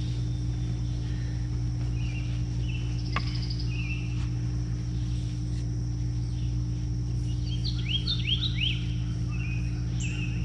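Birds chirping over a steady low outdoor hum, with a quick run of rising chirps about eight seconds in.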